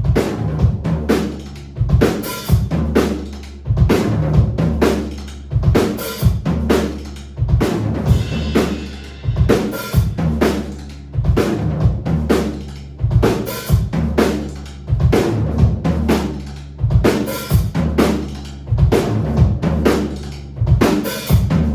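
Live rock band playing a loud instrumental passage: a drum kit with heavy bass drum and snare hits about once a second and crashing cymbals, over a sustained bass line.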